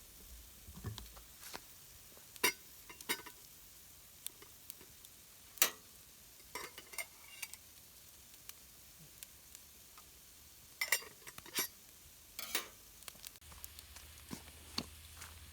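Cooking utensils clinking and scraping against a metal pot at irregular intervals, some strikes ringing briefly, over a faint steady hiss.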